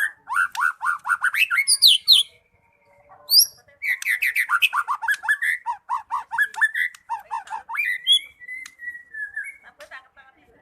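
White-rumped shama (murai batu) in full song: rapid runs of quick, repeated rising notes, a short pause, another long run, then a drawn-out whistle that slowly falls near the end.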